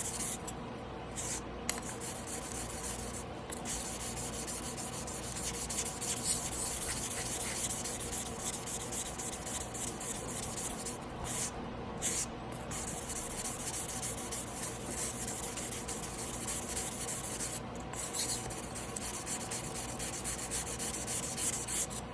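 Tojiro Damascus blue-steel 300 mm yanagiba blade rubbed back and forth by hand on a whetstone, a continuous gritty scraping broken by a few short pauses.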